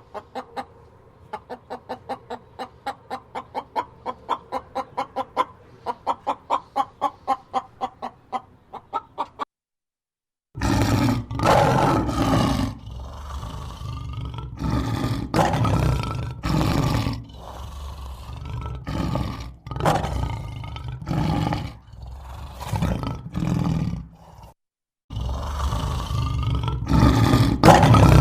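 A chicken clucking in quick, even pulses. After a brief silence, a large animal roars loudly and repeatedly, each roar lasting about a second.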